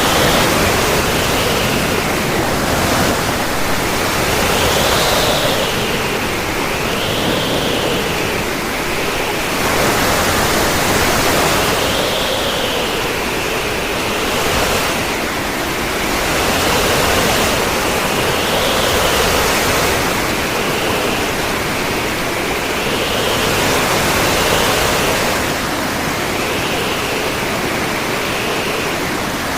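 Surf of a rough, storm-driven sea, a steady rush of water that swells and eases every couple of seconds; the sea is stirred up by an approaching cyclone.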